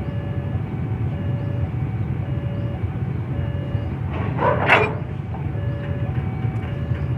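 Railway level-crossing warning alarm sounding its repeating two-tone chime, alternating about twice a second, over a steady low rumble. A brief loud rushing noise cuts in about four and a half seconds in.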